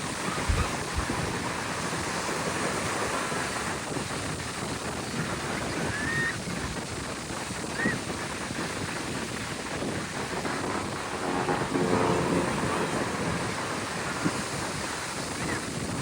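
Steady wind rushing on the microphone over beach surf, with a few short faint chirps and a brief tonal hum about eleven seconds in.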